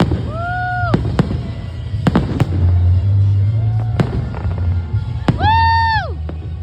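Fireworks salute: sharp bangs of shells bursting, some in quick succession, with two long high tones that rise and then fall.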